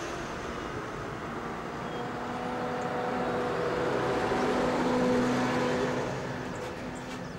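Farm tractors' diesel engines running as the machines drive past in convoy, growing louder to a peak about five seconds in and then fading away.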